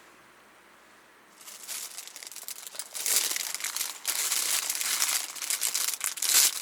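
Crinkling of packaging being handled, starting about a second and a half in and louder from about three seconds in.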